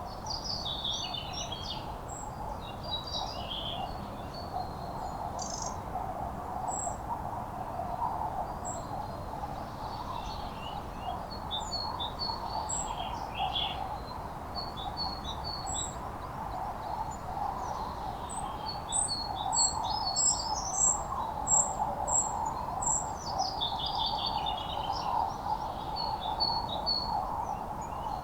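Several wild birds singing and calling over a steady background rumble of noise. About two-thirds through, one bird gives a quick run of about seven sharp, high notes, the loudest sounds here.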